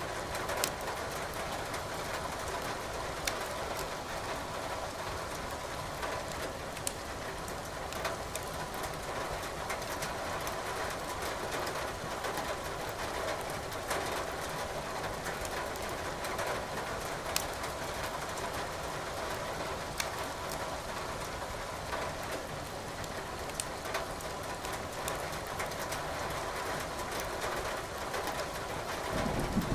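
Burning firewood in a fireplace crackling, with sharp pops every second or two, over a steady hiss of rain; a low rumble begins right at the end.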